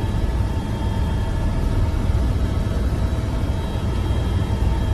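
Helicopter running: a steady low rumble with a steady high whine over it.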